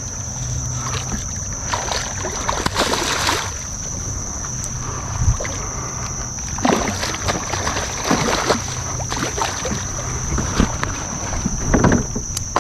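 Water splashing and sloshing around a kayak as a hooked redfish is brought alongside, with scattered knocks and wind on the microphone. A steady high-pitched tone runs behind it throughout.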